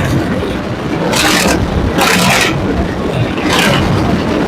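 A vehicle engine runs steadily as the vehicle drives along, with three short hissing or scraping bursts.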